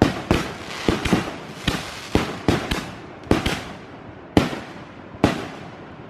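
Aerial fireworks bursting in a rapid, irregular series of about a dozen loud bangs, each trailing off in an echo, spacing out and thinning toward the end of the finale.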